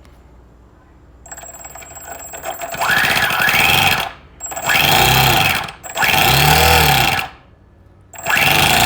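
Electric starter cranking a Toyan FS-S100 four-stroke model engine in four bursts of about a second each, the pitch winding up and dropping in each burst. The engine turns over but does not fire, as its glow plugs are not lit.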